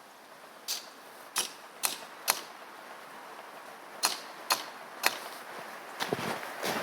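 A metal sap spile being pounded into the tap hole in a maple tree: about eight sharp, separate knocks in two uneven groups, each one driving the spile deeper into the wood.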